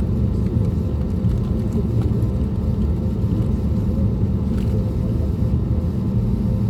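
Steady low cabin rumble of an Airbus A320neo with CFM LEAP-1A engines, heard from a rear economy seat, with a faint steady hum over it and no change in level.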